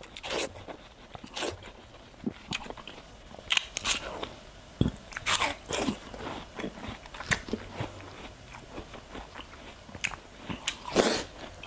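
A person biting into and chewing watermelon slices close to a clip-on microphone: a string of separate crisp crunches with chewing between them.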